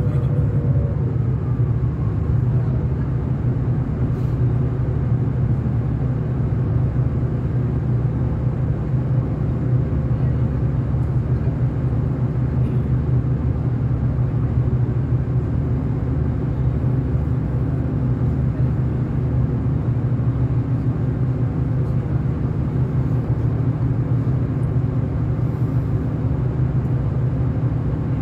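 V/Line diesel train running along the line, heard on board: a steady low rumble of engine and wheels on the rails, with no change in pace.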